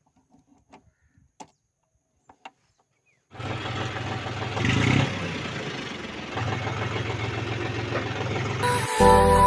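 A few faint clicks, then about a third of the way in a tractor engine suddenly comes in loud and runs steadily, swelling briefly as it revs once. Music starts just before the end.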